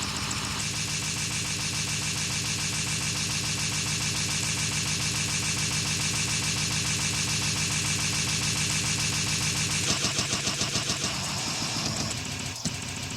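Harsh noise music: a dense wall of distorted noise with a fast, engine-like pulse. The texture changes about ten seconds in, with a run of sharp peaks, and thins near the end.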